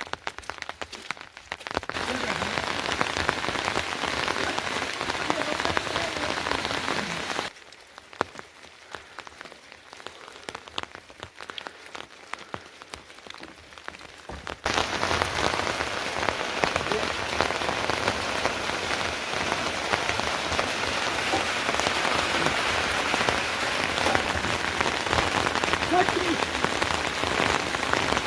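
Rain falling on surfaces, a dense patter of many drops. About a third of the way in it drops abruptly to a much quieter patter for about seven seconds, then comes back just as abruptly and louder.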